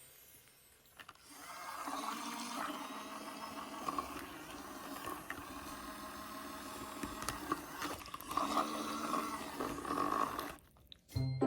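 Daiso battery-powered toy washing machine running with water in its tub: a small motor's steady hum with water churning, briefly dipping about eight seconds in and cutting off abruptly near the end.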